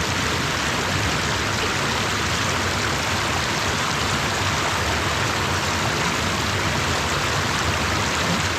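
Steady rush of running water, a stream or small cascade close by, with an even, unchanging level.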